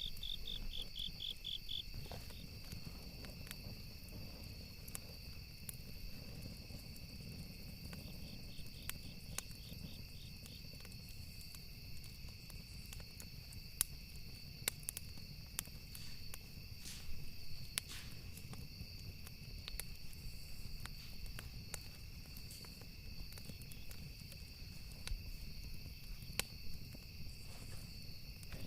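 Campfire with wood crackling, scattered sharp pops over a low rumble, with crickets trilling steadily. A run of rapid chirp pulses comes at the start and again about eight seconds in.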